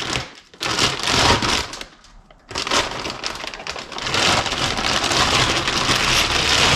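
Packing material crinkling and rustling as a boxed turbocharger is unpacked by hand, in two long stretches with a short pause between.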